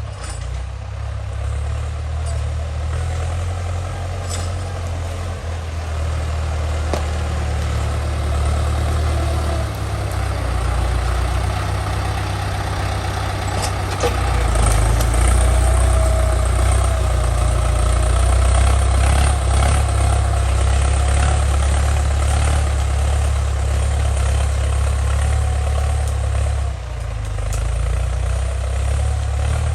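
Ford 6600 tractor's three-cylinder diesel engine running steadily while plowing a paddy field, growing louder about halfway through and easing briefly near the end.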